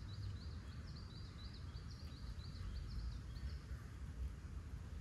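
A small bird singing a quick run of high chirps, about five a second, that stops about three and a half seconds in, over a steady low outdoor rumble.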